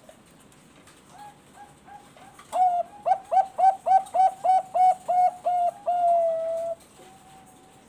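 Zebra dove (perkutut bangkok) singing its cooing song. A few soft notes come first, then a run of about a dozen quick, clipped coos at roughly three a second, ending in one longer drawn-out note.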